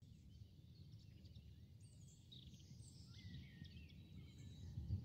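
Faint small birds chirping and twittering, with short rising and falling whistles that grow busier after the first couple of seconds, over a low, uneven rumbling background noise.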